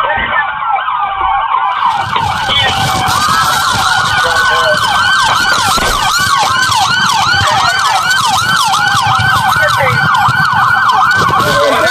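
Police car siren sounding, a slow wail at first that switches a few seconds in to a fast yelp of several rising sweeps a second, over engine and road noise.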